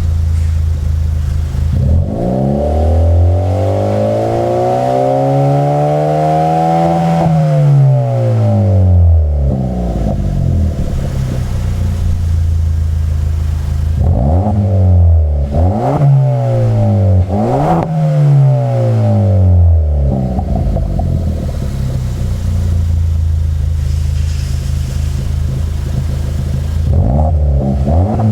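Suzuki Swift Sport ZC33S's 1.4-litre turbo four-cylinder free-revving at a standstill through its exhaust. It idles, climbs in one long rev that peaks and falls back, idles again, then gives four quick throttle blips a second or two apart, with two more blips near the end.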